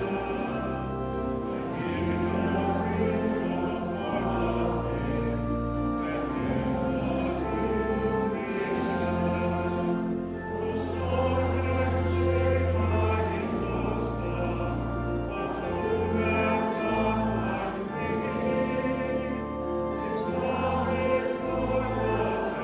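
Choral music: a choir singing sustained chords over a low bass line that changes every second or two.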